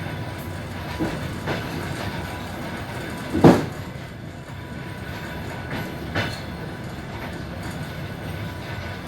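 Suburban passenger train running on the rails: a steady low rumble broken by sharp clacks of the wheels over rail joints, the loudest about a third of the way in.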